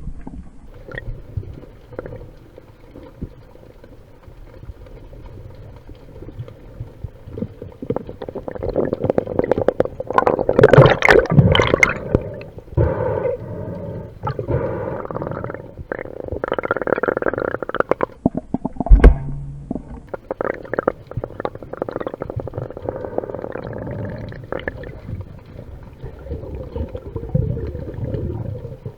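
Muffled underwater rumble of storm surge and churning water picked up by a camera in a waterproof housing, louder and more turbulent about ten seconds in and again later, with a sharp knock about nineteen seconds in.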